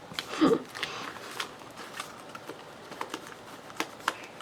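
Paper being handled on a desk: scattered soft ticks, taps and rustles, with a brief vocal sound about half a second in.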